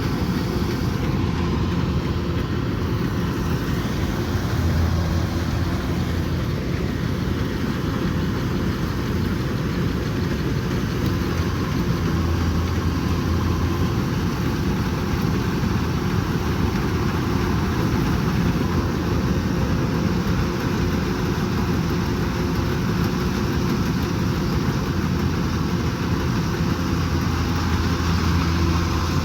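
Kubota combine harvester running steadily, a continuous engine drone with a low hum that swells a few times.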